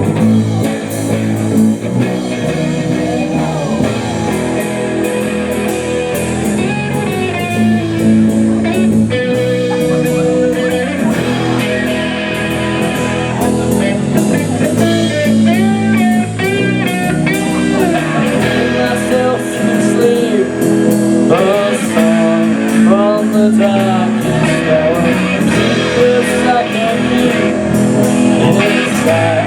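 Rock band playing with electric guitars, bass and drums, an instrumental passage before the vocals come in.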